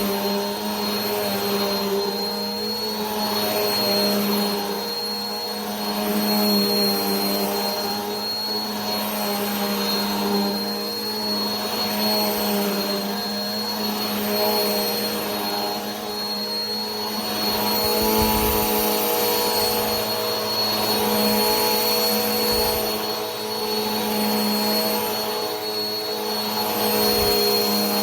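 Vacuum cleaner running steadily: a constant motor hum with a thin high whine above it. The loudness gently swells and eases about every two seconds.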